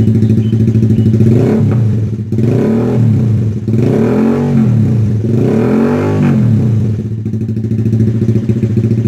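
Honda Sonic 150R's single-cylinder four-stroke engine through an aftermarket Kawahara GT Pro exhaust, idling and then revved several times, each rev rising and falling back, before settling to a steady idle about seven seconds in.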